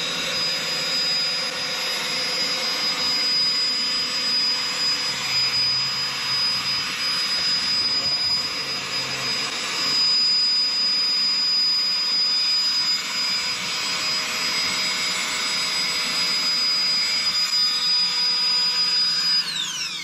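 Electric air pump running steadily, blowing air into a ballast bag, with a constant high whine over a rush of air. It is switched off near the end, and its whine falls quickly as the motor spins down.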